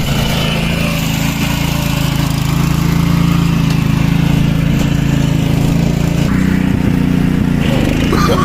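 Small mini-tractor engine running steadily, with a slight change in its note about six seconds in.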